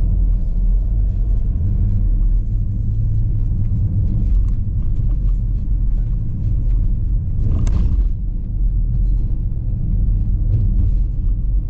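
Car driving slowly along a narrow country lane, heard from inside: a steady low rumble of engine and tyres on the road. A short louder rush of noise comes about eight seconds in.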